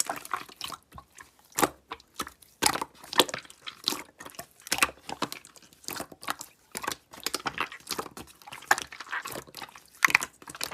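Slime being squished and poked by hand, giving irregular crackling clicks and pops.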